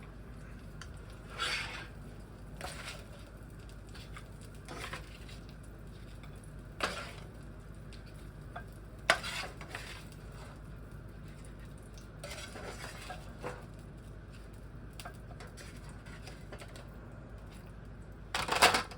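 Cooking utensils clinking and scraping against pans and dishes in scattered, irregular knocks, the sharpest clink about nine seconds in and a short cluster near the end, over a faint steady background.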